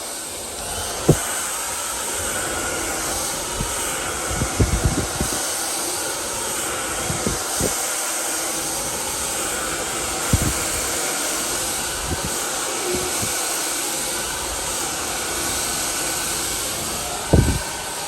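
FEIL Plus infrared hair dryer running steadily, an even rush of air. A few short low knocks come through it, the loudest near the end.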